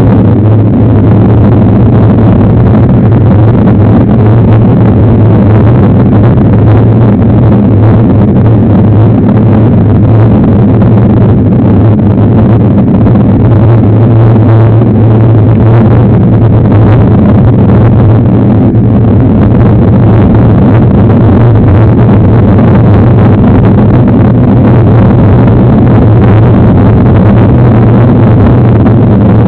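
Loud, steady rumble of wind buffeting and trail vibration on the camera of a mountain bike being ridden on a dirt trail.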